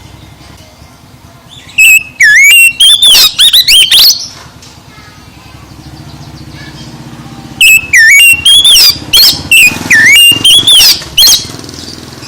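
Oriental magpie-robin (kacer) singing loud, varied whistled phrases that slide up and down, in two bursts: one about two seconds in, the other from about eight to eleven seconds. A steady low rumble like an engine runs underneath.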